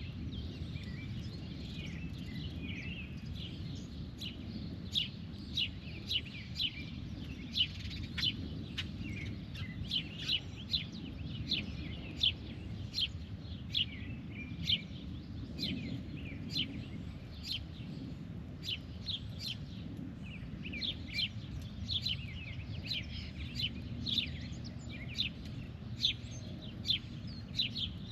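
A bird calling over and over in short, sharp chips, about one or two a second, over a steady low background rumble.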